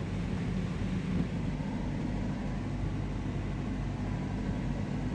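Steady engine and road rumble of a vehicle heard from inside its cab.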